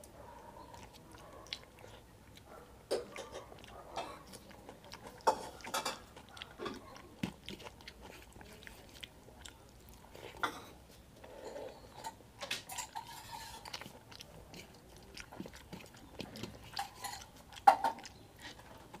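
Close-miked wet chewing and mouth smacks of a person eating soft rice mixed with curry by hand, in irregular short clicks, with one louder smack just before the end.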